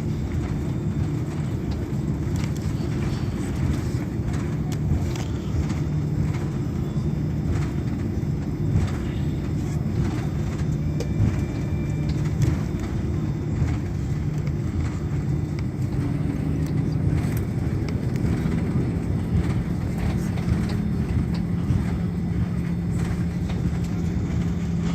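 Cabin noise of an Airbus A340 taxiing after landing: a steady low hum from the engines and air system, with scattered small rattles and knocks from the cabin fittings.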